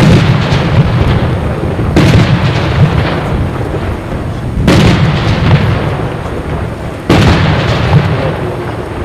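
Fireworks shells bursting: four heavy bangs about two to two and a half seconds apart, each followed by a rolling rumble that dies away before the next.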